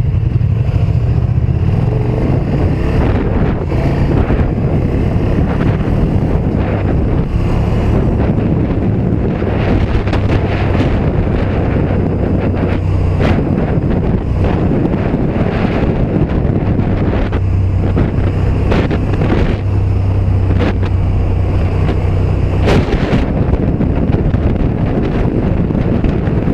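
KTM 1290 Super Duke R Evo's V-twin engine running while riding, with wind rushing over the microphone. The engine note steps up and down several times as the revs change.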